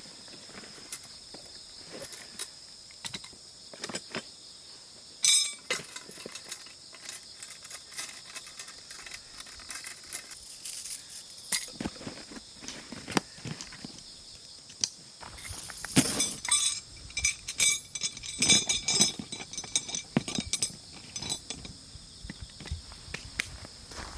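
Camping gear being handled: scattered clicks and knocks, a sharp ringing clink about five seconds in, and a busy run of clinking and clatter later on, over a steady high-pitched insect chorus.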